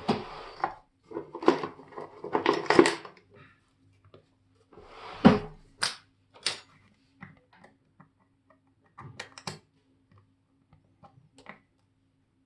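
Small watchmaking tools and watch parts handled on a workbench: a rustling clatter through the first three seconds and again about five seconds in, then scattered light clicks and taps, over a faint steady hum.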